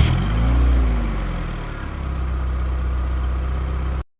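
Car engine just started, revving briefly so the pitch rises and falls over the first second or so, then settling into a steady idle. It cuts off suddenly near the end.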